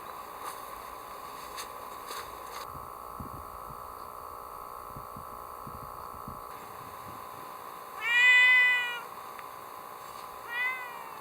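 A cat meowing twice: one long, loud meow that rises and falls in pitch, then a short, quieter meow near the end.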